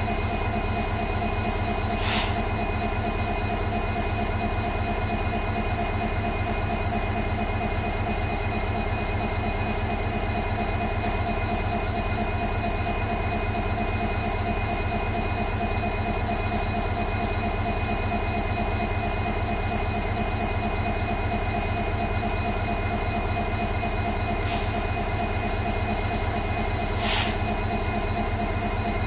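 WDP-4 diesel-electric locomotive's two-stroke V16 engine idling with a steady hum. A few short sharp clicks cut through it, once about two seconds in and twice near the end.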